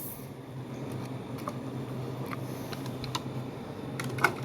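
A few light, scattered clicks and taps of a small diecast toy car and its plastic parts being handled, with a louder click near the end, over a steady low hum.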